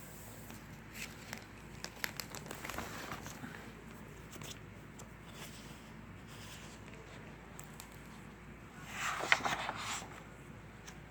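Pages of a paperback book being leafed through while searching for a passage: soft paper rustles and light taps, with a louder burst of rustling about nine seconds in.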